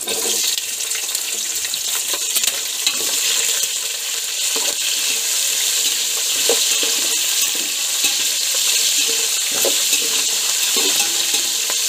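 Cut green chillies sizzling in hot oil with fried peanuts in a steel pot. The sizzle jumps up as they go in, with a steel spatula scraping and stirring through the tempering.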